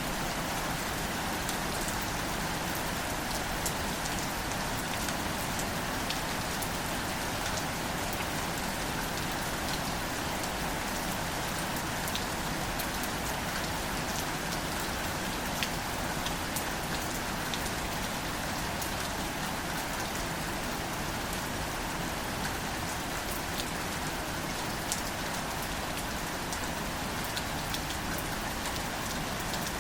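Gentle, steady rain falling on greater celandine wildflowers, with scattered sharp taps of single drops over an even patter.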